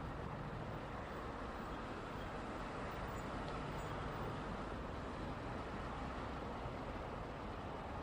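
Steady rush of road traffic: the continuous tyre and engine noise of vehicles passing, with no single car standing out.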